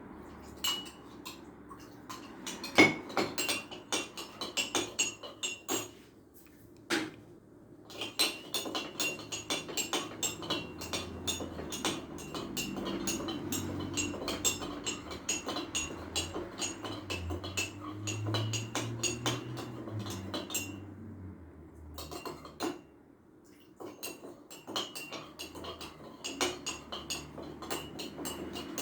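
A spoon stirring fast in a container, clicking and clinking against its sides, as coarse sea salt is dissolved into lime juice. The stirring stops twice for a moment.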